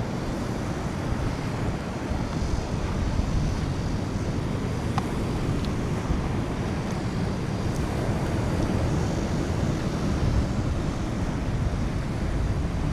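Wind buffeting the microphone over the wash of waves on the shore, a steady rough rumble with a couple of faint clicks about five seconds in.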